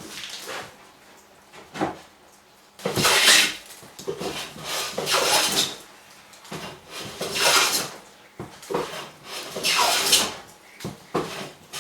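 Hand plane being pushed along wood in a run of about seven strokes, each about a second long, with short gaps between them, as it cuts shavings.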